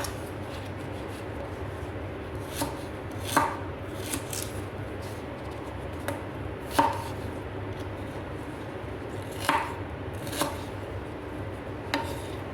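Knife chopping ginger into small pieces on a cutting board: about eight separate, unevenly spaced cuts over a steady low hum.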